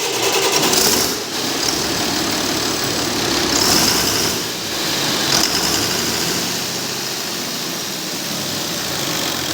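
Six-cylinder diesel engine running steadily, with small swells in level about one and four seconds in.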